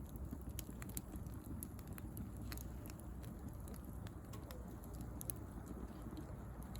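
Bonfire of dried rose prunings and twigs crackling, with irregular sharp pops over the low rumble of the burning.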